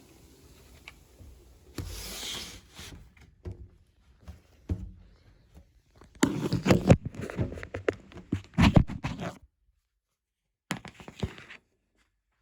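Irregular rustling and scraping with small knocks, in three spells, the longest and loudest in the middle. The sound cuts off to dead silence twice near the end.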